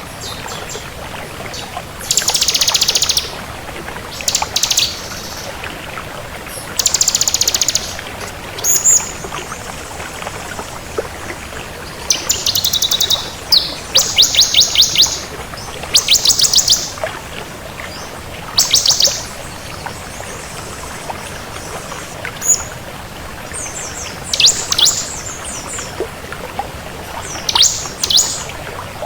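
Bar-winged prinia (ciblek kristal) singing in lively bouts: short bursts of rapid, high, repeated notes, each about a second long, coming again every second or two with brief pauses between.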